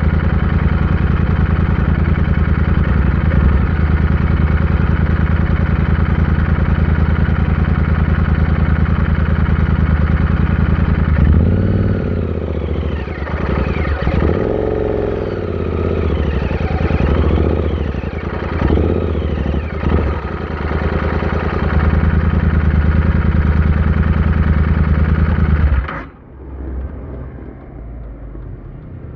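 Royal Enfield Interceptor 650's parallel-twin engine running at a steady speed. About halfway through, its revs rise and fall several times, then settle. Near the end the engine sound drops away suddenly.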